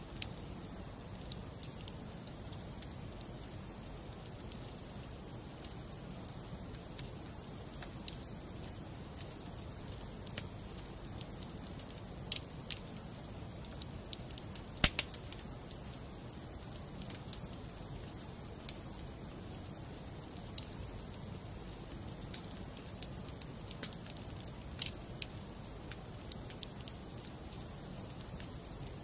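Wood fire burning in a fireplace: irregular crackles and pops from the logs over a steady low rush of flame, with one loud pop about halfway through.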